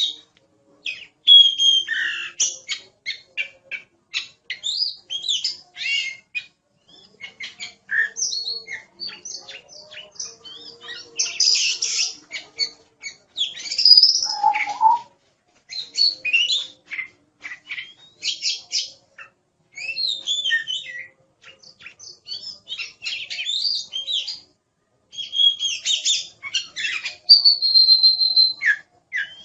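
Oriental magpie-robin (kacer) singing vigorously: a fast, varied run of clear whistles, trills and harsh rasping notes in short bursts with brief pauses, and one long steady whistle near the end.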